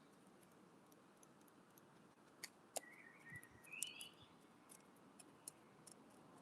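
Wood pigeon pecking seed at a window bird feeder: scattered sharp taps, two louder ones about two and a half seconds in. A bird chirps briefly twice around three to four seconds in.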